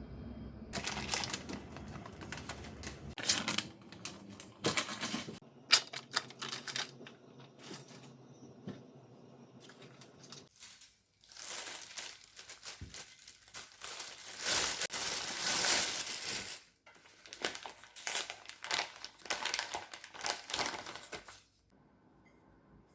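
Irregular handling noise: rustling and crinkling broken by sharp clicks. The busiest and loudest stretch comes a little past the middle, and it dies away near the end.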